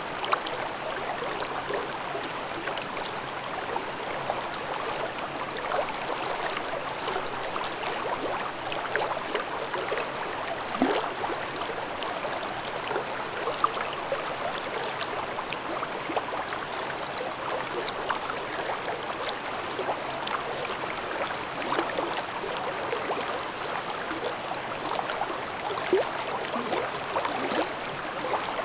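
A mountain stream babbling over rocks: a steady rush of water with many small gurgles and splashes.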